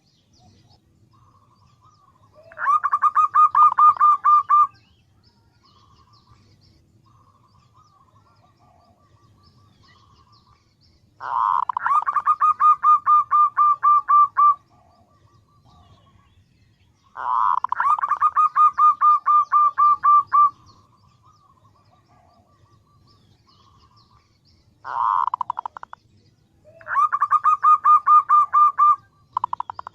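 Female zebra dove (perkutut) calling to attract a male: bursts of rapid, evenly pulsed cooing trills, five loud phrases of one to three seconds each. Softer trills at the same pitch run between them.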